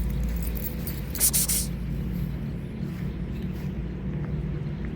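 Steady low background rumble, with a brief hissing rustle a little over a second in.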